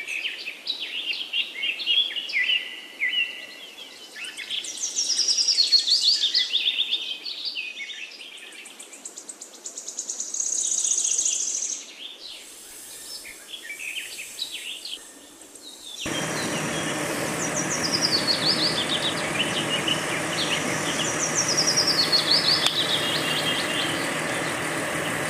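Small birds chirping and singing in quick, descending trills. About two-thirds of the way through, the background changes abruptly to a steady, louder noisy hum, with the birdsong continuing over it.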